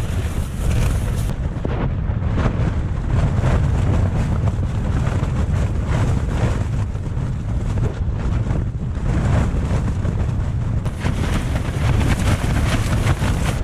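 Strong wind buffeting a tent, the fabric flapping and snapping again and again in the gusts, over heavy wind rumble on the microphone.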